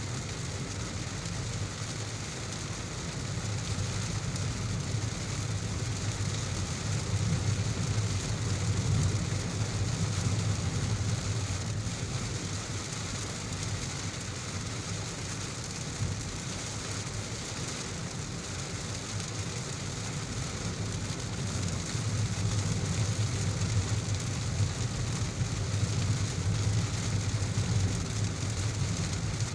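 Heavy rain falling steadily, with a low rumble underneath that swells and eases twice.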